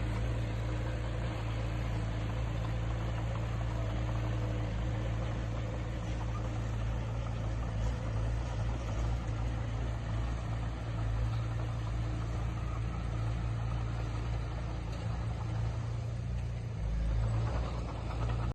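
Diesel engine of heavy earthmoving equipment running steadily, with a brief rise in level near the end.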